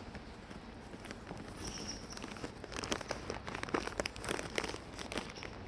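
A bag of nuts crinkling and rustling as it is handled, with dense crackles from about halfway through.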